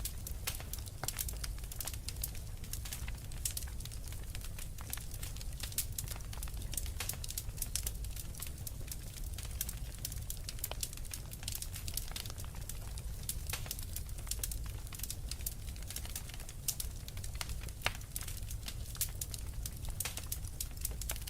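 Wood fire crackling in a fireplace: a dense, irregular stream of small sharp pops and snaps over a low steady rumble.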